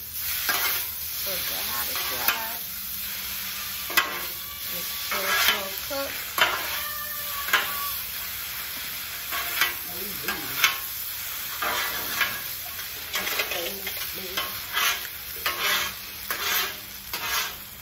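Food frying on a hot hibachi griddle with a steady sizzle, while a cooking utensil stirs and scrapes it, giving sharp taps and knocks on the cooking surface every second or so.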